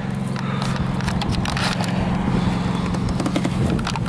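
1979 Porsche 911 SC's air-cooled flat-six engine running steadily at low revs, a low even hum, with a few light clicks over it and a slight wavering of pitch near the end.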